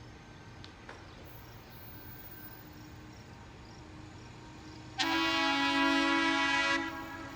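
A locomotive's air horn sounds one long blast about five seconds in, a chord of several steady tones held for about two seconds, over a quiet background before it.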